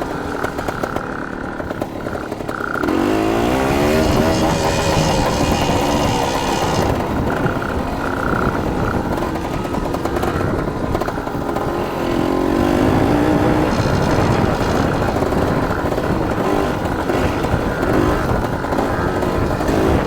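Dirt bike engine running while being ridden, revving up about three seconds in and again around twelve seconds.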